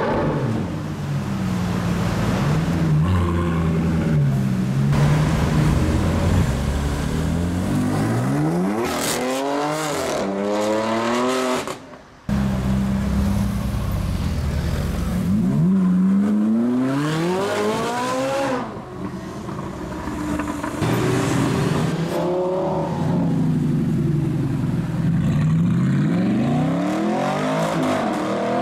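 High-performance supercar engines idling and revving, with several hard accelerations whose pitch climbs steeply through the gears. Near the middle the sound briefly drops out, then another car picks up at idle before accelerating again.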